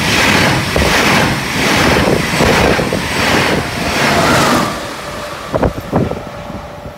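Passenger train passing close by at speed: loud rushing of wheels on the rails that swells and dips at regular intervals as each carriage goes by, dropping away after about four and a half seconds. Two sharp clicks follow near the end.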